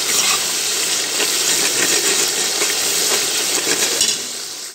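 Onion-tomato masala frying in oil in a pot, sizzling and crackling steadily as a spatula stirs it. This is the masala being fried down (bhuna). The sizzle drops a little near the end, then cuts off abruptly.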